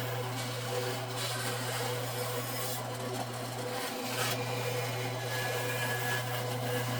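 Bandsaw running with a steady hum while its blade cuts through wood along a template line. The cutting noise comes and goes, and the hum dips briefly about four seconds in.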